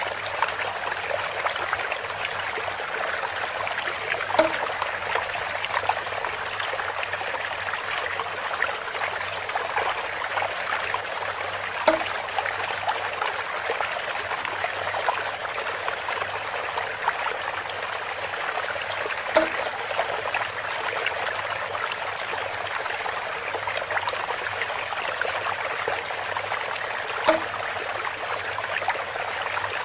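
Water trickling and splashing steadily through bamboo, with a brief hollow knock about every seven to eight seconds, four times in all.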